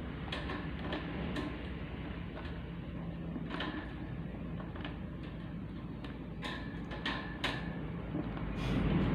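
Scattered light clicks and knocks, about seven across a few seconds, over a steady low hum.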